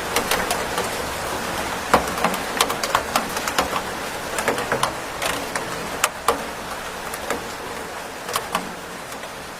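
Steady rain hiss with irregular sharp drops tapping on a hard surface, several a second, easing slightly in loudness near the end.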